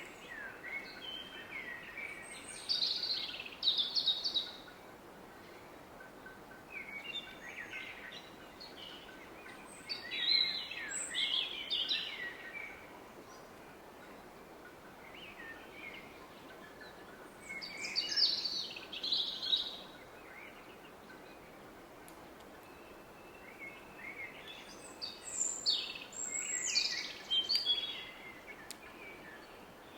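A songbird singing a phrase of quick, sliding high notes four times, about every seven seconds, over the steady rush of a distant river.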